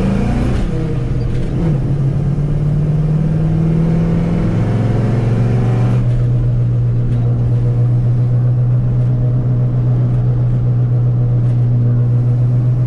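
Cammed LS V8 with headers and Flowmaster dual exhaust pulling a lifted 1985 Chevy K10 through its gears: the engine pitch climbs in the first second, drops as it is shifted up, then settles into a steady low drone at cruise. Under it is the hum of 36-inch Super Swamper mud tires, which are nice and loud.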